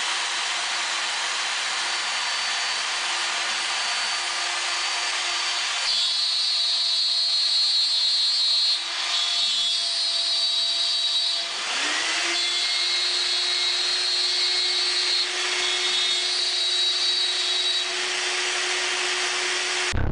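DIY CNC router running and cutting, the spindle's steady hiss overlaid by whining tones that jump to new pitches every few seconds as the machine changes moves; about twelve seconds in, a tone briefly drops and glides back up.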